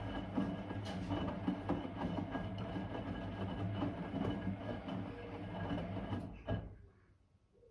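Blomberg WA391 washing machine running with a steady motor hum and clatter from the turning drum, stopping abruptly about six and a half seconds in.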